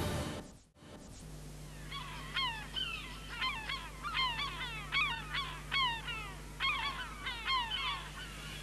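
A bird or a group of birds calling over and over, starting about two seconds in: short calls, each falling in pitch, two or three a second, over a steady low hum.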